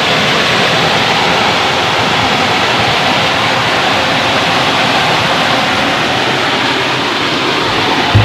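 Steady rushing of floodwater, a continuous even noise.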